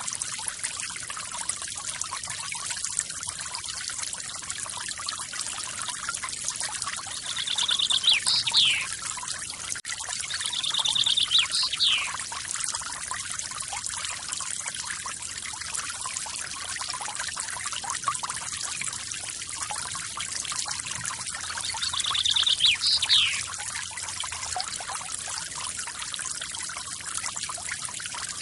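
Steady rush of falling water from a small forest waterfall, with a bird calling three times over it, each call a rapid trill followed by a quick sweeping note.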